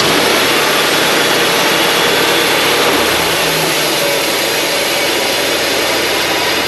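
Wood-Mizer LT35 portable band sawmill running steadily, its band blade cutting through a white pine log.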